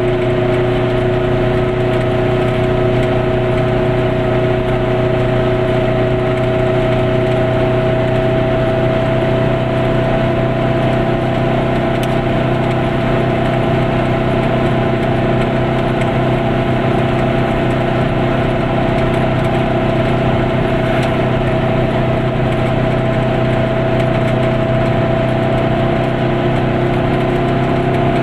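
Goggomobil's air-cooled two-stroke twin engine running at a steady cruise, heard from inside the small car's cabin, its pitch creeping slightly upward, over a steady hiss of road noise.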